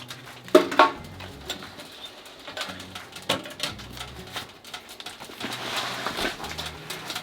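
Someone eating: chewing and mouth sounds with scattered light clicks of chopsticks and dishes.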